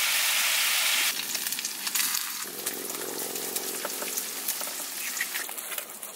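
Bacon sizzling loudly in a skillet. About a second in, the sizzle drops to a quieter frying hiss with scattered pops as eggs fry in the pan.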